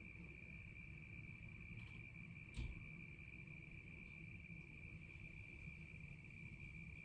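Faint, steady trill of a cricket holding one unbroken high tone, over a low background rumble, with a single short knock about two and a half seconds in.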